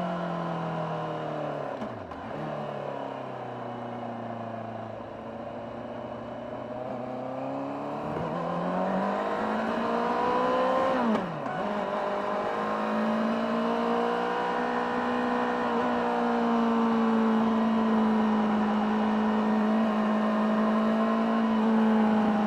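Honda CBR600RR inline-four engine under way, heard on board. Its pitch drops as the bike slows, then rises under acceleration, with a quick dip about eleven seconds in like a gear change. It then holds a higher, steady note as the bike cruises.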